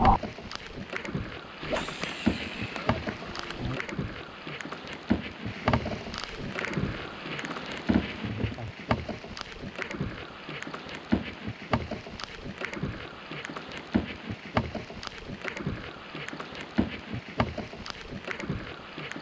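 Steady rain falling on the lake surface, with irregular single drops tapping sharply on the kayak and camera.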